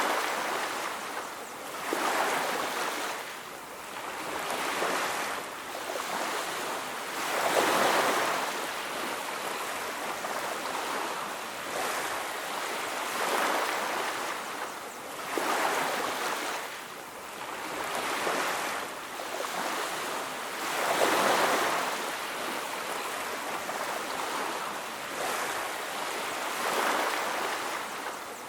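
Ocean surf: waves breaking and washing onto a beach, the rushing swelling and fading every few seconds.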